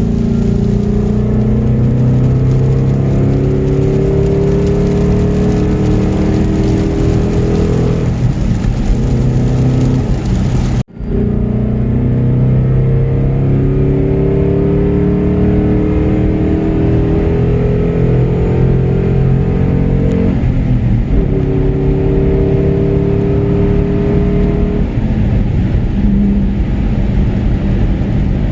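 Race car engine accelerating hard through the gears, its pitch climbing and then dropping back at each upshift, again and again. The sound breaks off for an instant about eleven seconds in and resumes with the same pattern.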